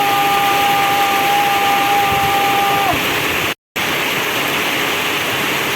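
Heavy rain pouring down steadily. A steady two-note tone is held over it for the first half and stops with a slight dip in pitch. The sound cuts out completely for a moment a little past the middle.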